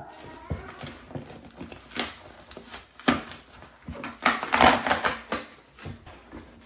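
Cardboard box and packaging being handled while unboxing a vacuum cleaner: irregular knocks, clicks and rustling, densest about four to five seconds in.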